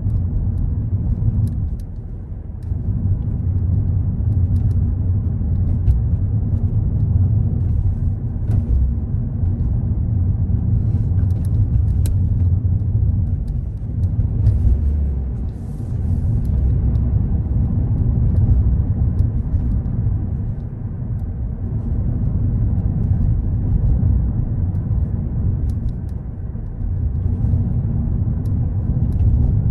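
Car driving: a steady low rumble of road and engine noise that eases briefly a few times.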